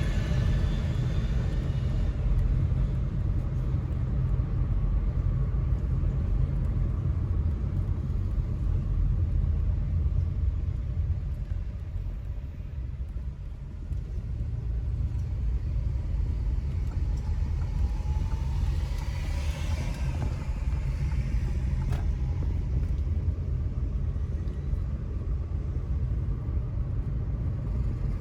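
Steady low rumble of a car driving, engine and road noise. It eases off briefly about twelve seconds in, and a short swell of higher hiss comes about twenty seconds in.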